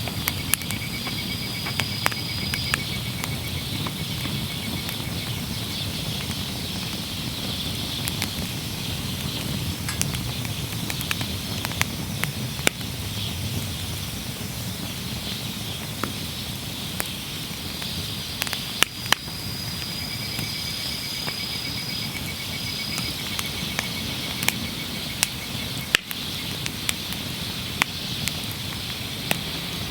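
Wood fire burning in a Snow Peak fire pit: a steady low rush of flames with frequent sharp crackles and pops. A high, steady insect trill sounds twice, near the start and again from about 18 seconds in.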